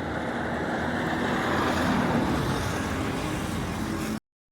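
Road traffic noise with a motor vehicle running, swelling louder about two seconds in, then cutting off suddenly near the end.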